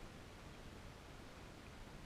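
Near silence: faint steady background hiss with no distinct sound.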